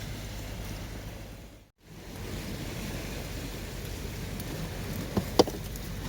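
Wood campfire burning with a steady rushing hiss, and two sharp crackling pops close together near the end, the second one loud.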